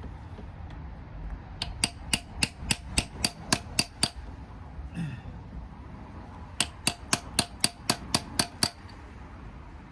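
Hammer tapping on the inside edge of a pressed-in metal plug in the valley of a Mercedes M113 V8 block, working to flip it out. Two runs of about ten quick metallic strikes each, about four a second, each with a short ring.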